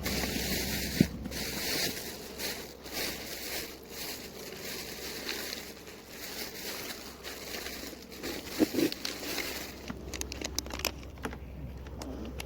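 Rustling and scraping of fishing gear being handled on a kayak, with a sharp knock about a second in and a few thumps a little later.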